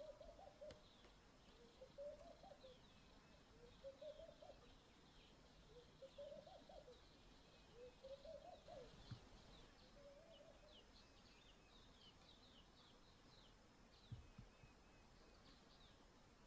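Faint outdoor birdsong: one bird repeats a short call that rises and falls, six times about every two seconds, stopping about ten seconds in, while many quick high chirps run over it.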